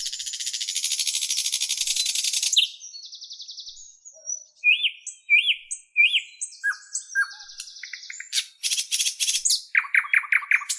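Songbirds singing: a long, fast buzzy trill, then a mix of short chirps and arched whistled notes, ending with a quick run of falling notes.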